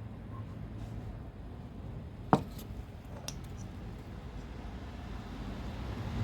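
A car engine running with a low steady hum, a sharp click about two seconds in and a fainter click about a second later; the engine grows louder near the end.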